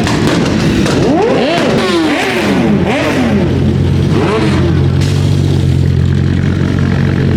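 A car engine revved in several quick blips, each rising and falling in pitch, then settling into a steady idle.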